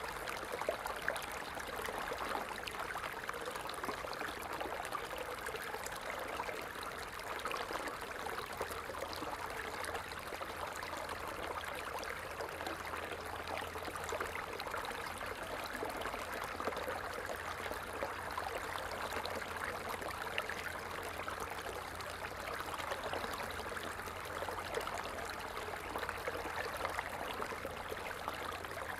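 Water falling and splashing in a steady, unbroken rush.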